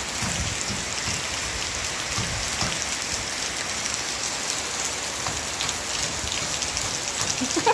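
Steady rain falling on a wet concrete rooftop, with small splashes from a child's bare feet running through the puddles.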